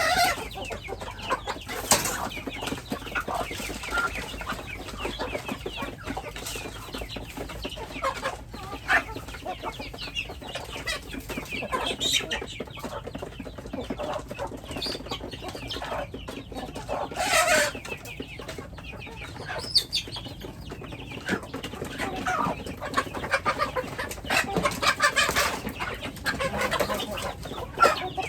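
Domestic chickens clucking, many short calls overlapping, with a few louder calls standing out among them.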